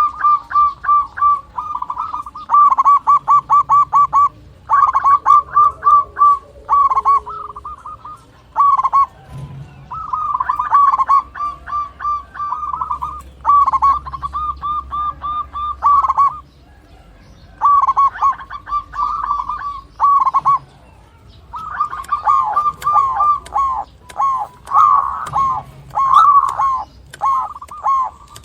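Zebra doves (local perkutut) calling: runs of short, quick cooing notes, about five a second, in bursts of a few seconds broken by short pauses. In the last few seconds the notes crowd together and overlap.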